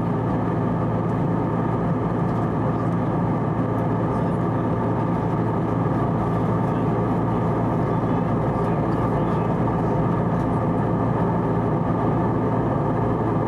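Steady drone inside the cabin of an Airbus A320neo in flight: airflow and its two CFM LEAP-1A turbofans, a constant rush with a low, even hum underneath.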